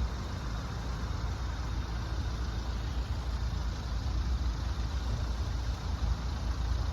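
Road vehicles' engines idling, a steady low rumble with no distinct events.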